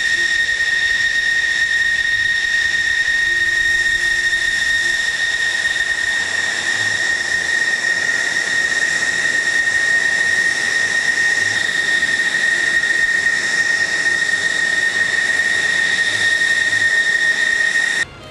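Jet turbine running steadily: a constant high-pitched whine over a hiss, which cuts off abruptly near the end.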